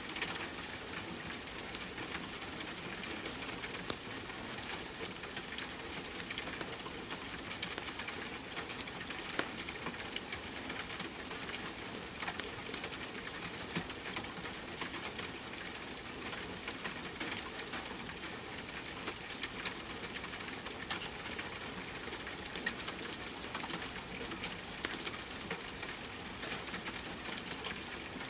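Steady rain with many small scattered ticks and crackles, typical of a rain-and-fireplace ambience mix.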